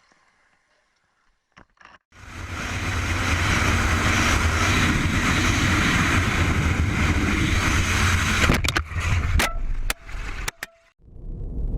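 Car driving, its engine and road noise a steady low rumble with a hiss, starting about two seconds in; several sharp clicks and breaks follow near the end before the rumble resumes.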